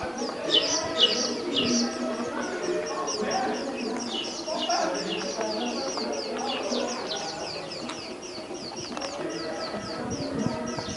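Small birds chirping in a fast, steady series of short, high, falling chirps, about three or four a second, with fainter lower calls or voices underneath.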